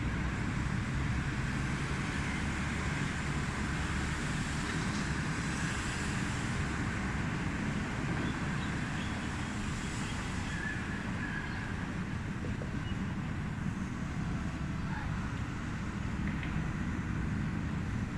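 Military helicopter flying, a steady rotor thrum with fast, even low pulsing and little change in loudness.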